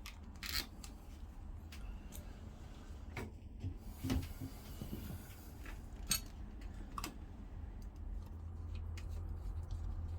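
Scattered metallic clicks and knocks of hand tools and a starter motor being handled while it is fitted to a marine diesel, over a low steady background rumble.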